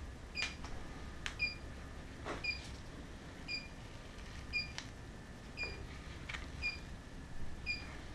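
Electronic refrigerant leak detector (Inficon D-TEK Select) beeping short high chirps at a slow, even rate of about one a second, the steady search-mode tick with no speed-up that would signal a leak. Scattered sharp clicks and a low machinery hum sit underneath.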